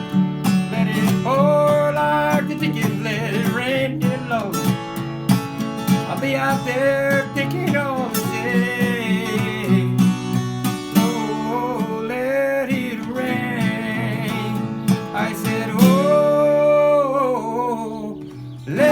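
Acoustic guitar strumming a country song's closing bars, with long held melody notes over the chords. It drops off briefly near the end before starting again.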